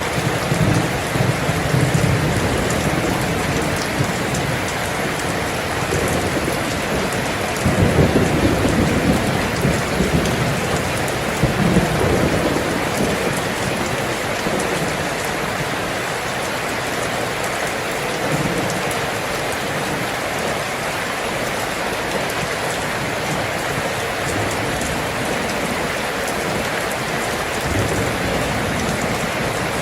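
Rain falling steadily as a dense, even hiss, with low rumbling swells coming and going; the strongest is about eight seconds in.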